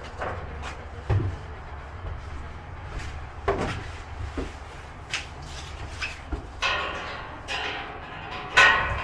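Knocks, clunks and scrapes of boxed goods being handled and loaded into a cargo van, with a few short pitched squeaks in between.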